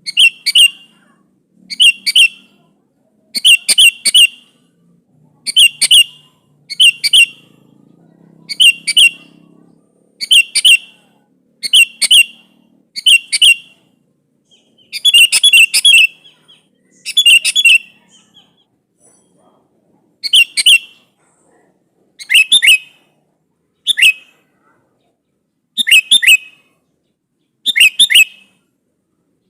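Sooty-headed bulbul calling to a rival: short, bright, chattering phrases repeated about every one to two seconds, with a brief pause about two-thirds through.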